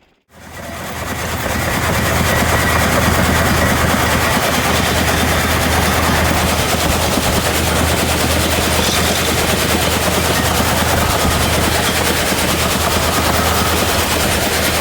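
Motorized shaker table running: a steady engine drone with the fast, even rattle of the shaking screen, which comes in over the first second or two.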